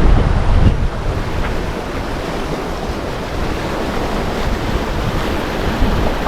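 Wind buffeting the microphone over the rush of water along a sailboat's hull, the boat sailing with no engine running. A little louder in the first second, then steady.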